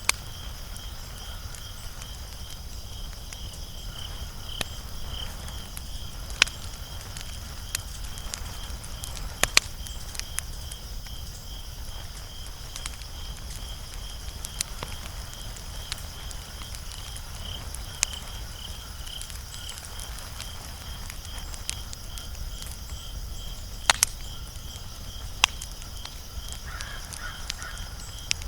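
Wood fire burning with scattered sharp crackles and pops over a low steady rumble. A high, steadily pulsing chirp, like a cricket, runs underneath.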